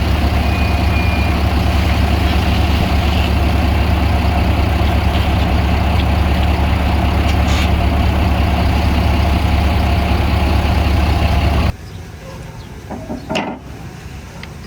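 Heavy diesel engine of earth-moving machinery running steadily at a low, even pitch. It cuts off abruptly about three-quarters of the way through, leaving a much quieter background with a few faint knocks.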